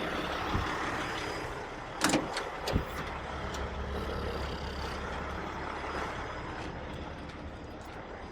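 Heavy truck's diesel engine running steadily, with two short knocks about two and three seconds in.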